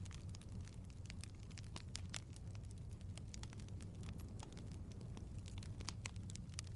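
Fire crackling: irregular sharp pops and snaps, several a second, over a low steady rumble.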